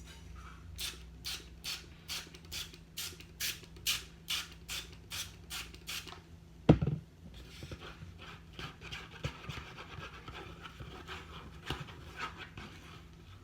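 A utensil stirring a shampoo and hairspray mixture in a cup: rhythmic scraping strokes about two a second, a single loud knock a little past halfway, then more irregular scratchy stirring.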